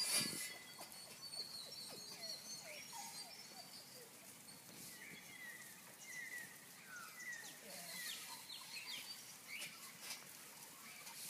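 Birds calling in the background in short, scattered chirping notes, with one brief sharp knock right at the start.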